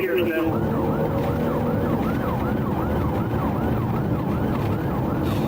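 Police car siren in yelp mode, its pitch sweeping up and down rapidly, roughly three times a second, over the steady noise of the pursuing car's engine and tyres.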